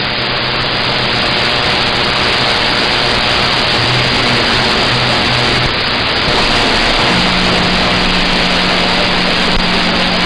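CB radio receiver putting out loud, steady static hiss with a low steady hum under it, the hum growing stronger about seven seconds in.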